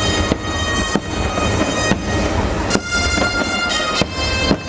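Aerial fireworks bursting with sharp cracks about once a second over loud fireworks-show music of long held chords, with a deep rumble underneath.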